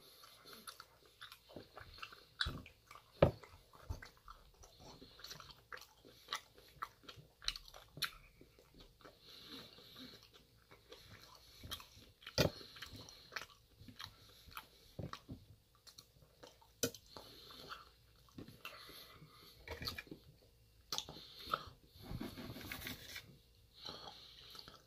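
Close-up chewing and mouth sounds of someone eating steak and roasted potatoes, with scattered sharp clinks of a fork and steak knife against a stainless steel pan.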